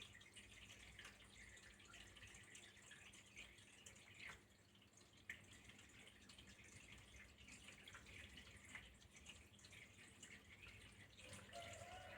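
Faint trickle of running water with a few separate louder drips. Right at the end a short tone starts, falling in pitch.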